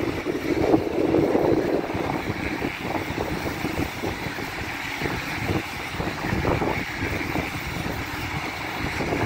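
ICE high-speed train rolling past at a distance, a steady rushing rumble, with gusts of wind buffeting the microphone.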